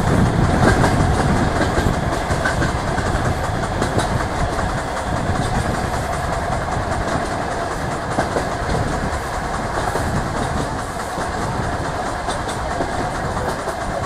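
DR1A diesel multiple unit running along the line, heard through an open carriage window: a steady rumble of the train with wheels clicking over the rail joints.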